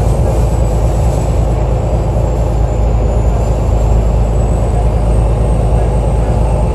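Alexander Dennis Enviro 500 double-decker bus engine running steadily, a deep rumble with a thin high-pitched whine that drifts slightly in pitch.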